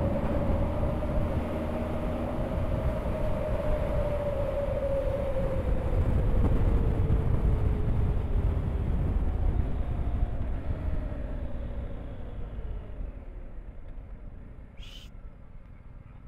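Motorcycle engine running on the road under heavy wind rumble on the microphone. The engine note holds steady, then sinks slowly and everything fades over the last several seconds as the bike eases off and slows.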